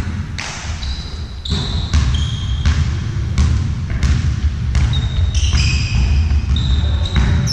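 A ball bouncing repeatedly on an indoor court floor, each bounce a sharp thud at irregular intervals, with short high squeaks of shoes on the court in between and a loud low rumble underneath.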